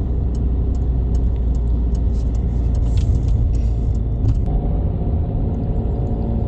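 A car driving, with a steady heavy rumble of road and engine noise and scattered small clicks and ticks over it.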